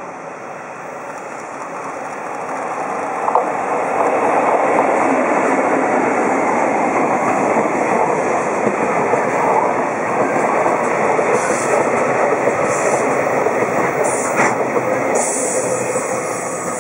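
EF65 electric locomotive hauling a long container freight train past. The rumble and clatter of wheels on the rails builds over the first few seconds as the locomotive arrives, holds steady as the wagons roll by with short high-pitched bursts in the second half, and eases off near the end as the last wagons pass.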